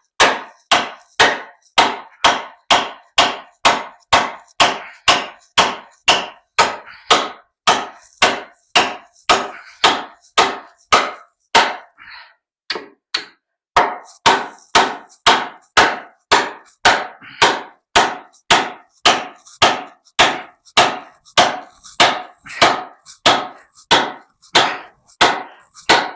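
A hand hammer repeatedly striking the top of a steel rebar stake to drive it in, about two blows a second. There is a short break with a few lighter taps about halfway through, then the steady pounding resumes.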